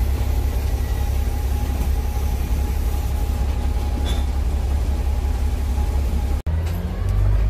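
Steady low rumble of a running vehicle with a faint steady tone above it. It cuts off abruptly about six and a half seconds in, and a different low rumble follows.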